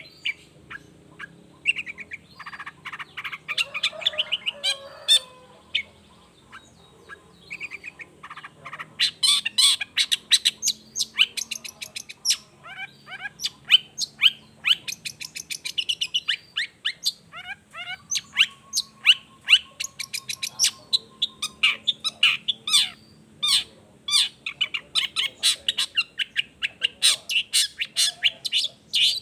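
Long-tailed shrike (cendet) singing a fast, varied song of sharp chattering notes and rapid trills, broken by a few short pauses.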